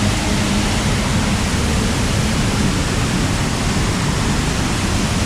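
Sera Ella waterfall close at hand: a loud, steady rush of falling water.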